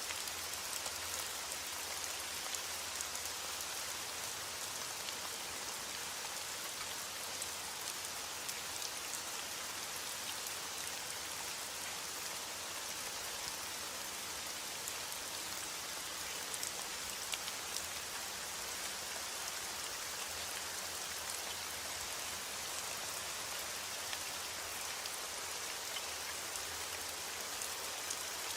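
Steady rain falling, a constant hiss with scattered individual drops ticking.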